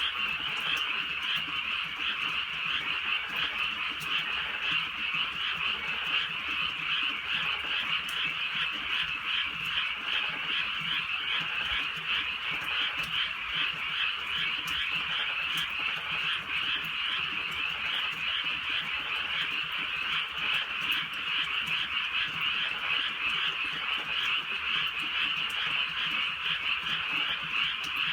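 A dense chorus of many frogs croaking at once without a break, a steady massed din.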